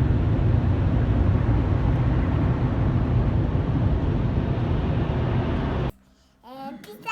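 Automatic car wash machinery heard from inside the car's cabin: a loud, steady rushing noise, heaviest in the low range, that cuts off abruptly about six seconds in, followed by a young child's voice.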